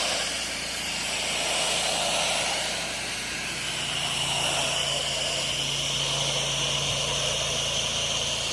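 8 GPM pressure washer spraying soft-wash solution through a wide fan tip: a steady hiss of the spray over the machine's steady engine hum, the hum growing stronger about four seconds in.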